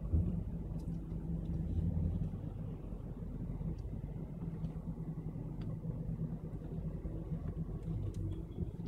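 Car engine running at low speed in stop-and-go traffic, heard from inside the cabin as a steady low hum.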